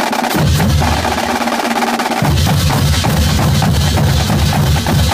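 A marching drumline plays a loud percussion cadence, with fast snare strokes and clicks. Deep bass drum hits come in about half a second in.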